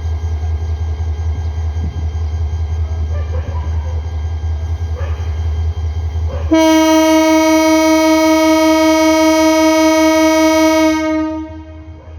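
Train locomotive horn sounding one long, loud blast that starts about halfway through and fades out shortly before the end, over a steady low rumble from the train.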